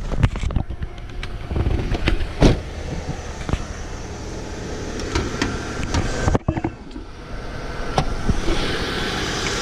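Renault F4R four-cylinder petrol engine idling shortly after a start, its camshaft dephaser pulley worn, with clunks and clicks of the bonnet being released and lifted over the first several seconds. The engine sound grows steadier and clearer near the end as the bay is opened up.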